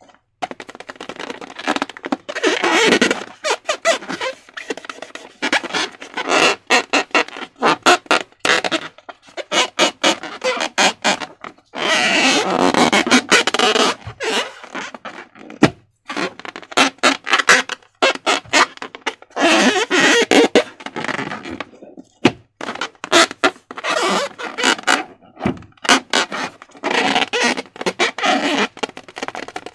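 Slime being squished and handled: irregular squelching and sticky crackling in short bursts, with many small clicks.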